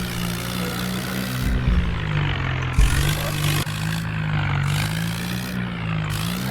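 Heavy diesel engine of a tractor or backhoe loader running hard under load, its pitch dipping and rising as the load changes.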